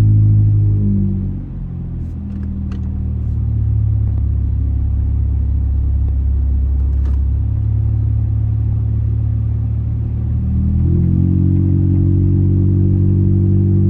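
Straight-piped 2004 Honda Accord 2.4L four-cylinder exhaust droning while driving. The engine note drops about a second in, holds lower for several seconds, then climbs back to a higher steady drone near the end.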